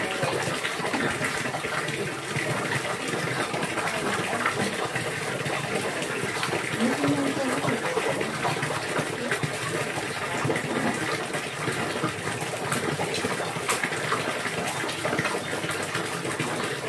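Steady rush of running water, an even gushing flow without pauses.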